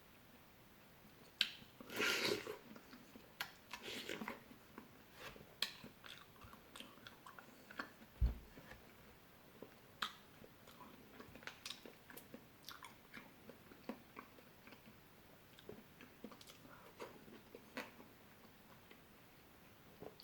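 Close-up chewing and biting of fresh fruit: irregular wet bites and mouth clicks, the loudest bites about two and four seconds in, with a single low thump just after eight seconds.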